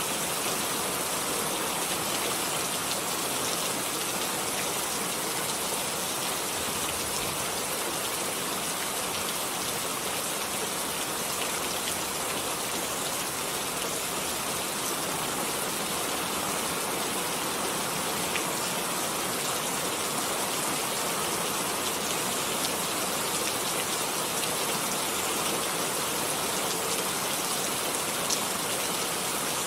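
Steady rainfall, a dense even hiss of falling rain with a few faint separate drop ticks.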